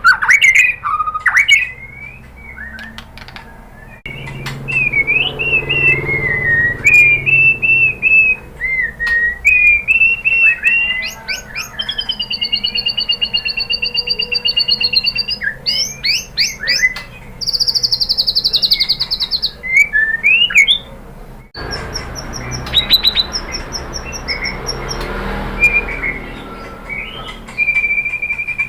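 White-rumped shama (murai batu) singing a long, varied song of clear whistled phrases, fast runs of repeated notes and high, rapid trills. A held whistle with quick strokes below it comes near the end, and the song breaks off abruptly and resumes twice.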